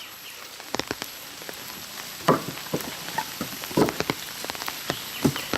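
Rain falling, a steady hiss with many scattered drips and taps, a few of them louder.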